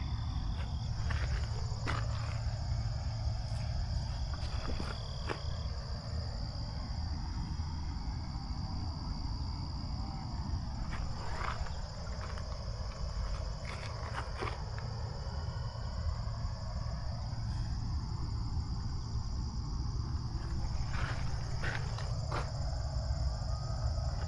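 Steady high-pitched chorus of crickets over a constant low rumble, with a few scattered clicks.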